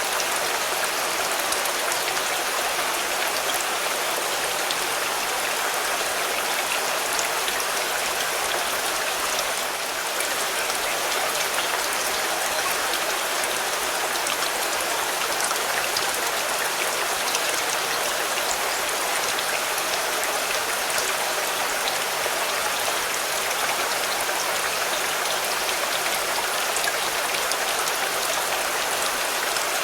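Steady rain falling on a car: an even hiss made up of many small, sharp drop hits, with no change in intensity.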